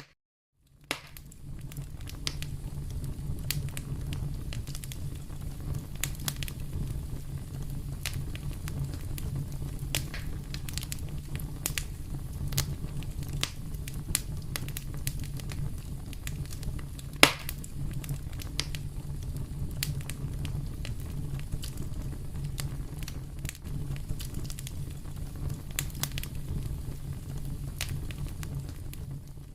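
Fire in a fireplace crackling, with a steady low rumble under frequent sharp pops and one louder pop a little past the middle. The sound drops out for under a second at the very start, then resumes.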